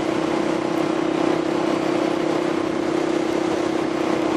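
Motorcycle engine running at a steady cruising speed, its note holding one constant pitch, under a steady rush of wind noise on the rider's microphone.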